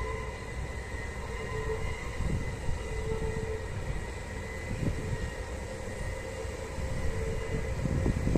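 Bernina Railway electric train running: a steady low rumble with a faint steady whine, and a few dull thumps.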